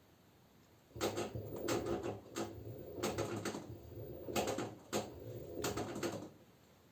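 LG F10B9LD front-loading washing machine's drum turning slowly in a series of short pushes after the final spin, the laundry tumbling and thudding inside, for about five seconds before it stops.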